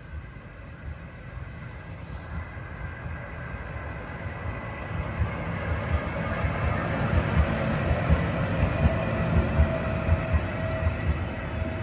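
Electric passenger train, hauled by an NS Siemens Vectron locomotive, approaching and passing close by. Its wheels rumble on the rails, growing steadily louder until the locomotive and first coaches go past in the second half.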